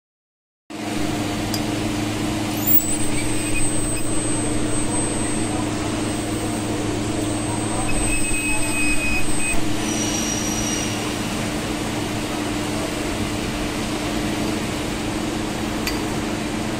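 Steady machine hum with a constant low drone, and a faint high-pitched whistle that rises and holds from about three seconds in until about ten seconds in.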